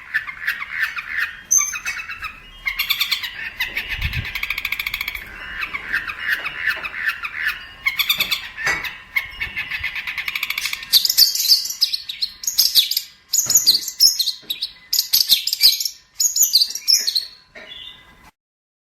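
Long-tailed shrike (cendet) singing a fast, varied chattering song of rapid chirps and trills, moving to higher, harsher notes about halfway through and stopping just before the end.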